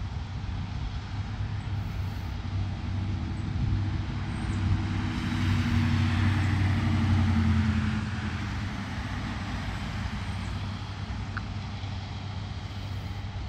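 A motor vehicle going by, its engine hum and road noise growing louder to a peak about six to seven seconds in, then falling away.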